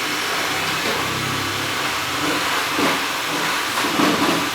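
Xiaomi Mi robot vacuum running, its suction fan and brushes giving a steady whir as it cleans along a wall edge. The sound swells briefly twice in the second half.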